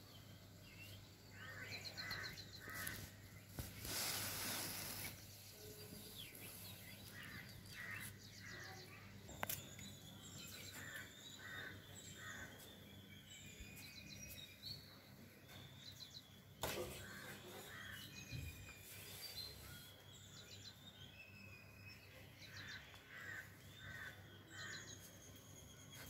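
Several songbirds chirping and calling, faint, with short notes repeated in quick runs and some longer whistled calls, over a steady low hum. A brief rush of noise comes about four seconds in and again past the middle.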